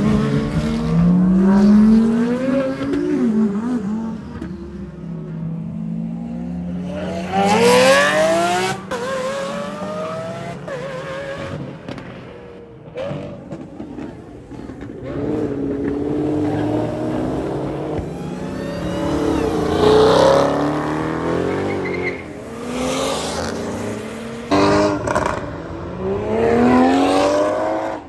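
Sports cars and muscle cars accelerating hard away one after another, their engines revving up in rising sweeps that break and start again as they shift gears. The loudest pulls come about 8, 20 and 27 seconds in.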